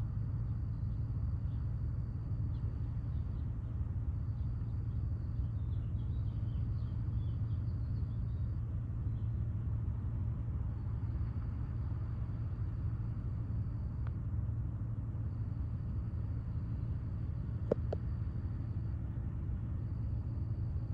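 Steady low drone of a large container ship's engines under way. A faint high-pitched buzz comes and goes in spells of a few seconds, and there is a single sharp click near the end.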